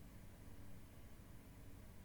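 Near silence: a faint steady low hum and hiss of room tone.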